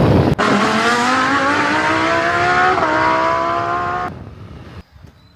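Motorbike engine accelerating, its note climbing steadily with a small step about two and a half seconds in, then cutting off about four seconds in.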